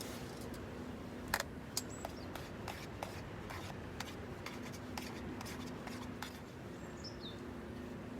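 Scattered light clicks and ticks over a steady outdoor background, with a single short falling bird call near the end.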